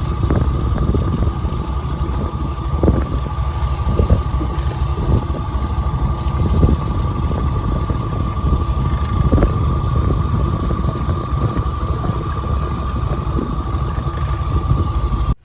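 Fishing boat's engine and deck machinery running steadily, with a constant high whine and scattered knocks. The sound cuts off abruptly at the end.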